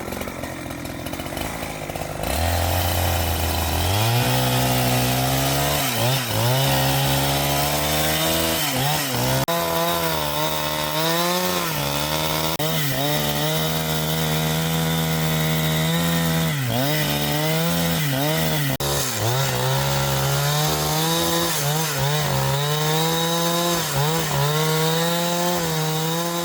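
Chainsaw engine starting about two seconds in and revving up to full speed, then cutting through wood, its pitch dipping briefly again and again as the chain bites and recovering.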